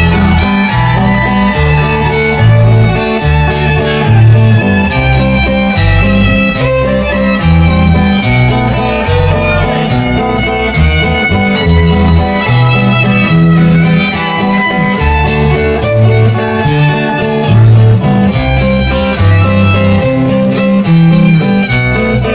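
Rock band playing an instrumental break with no singing: a violin leads over guitars, with a stepping bass line and steady drum beat underneath.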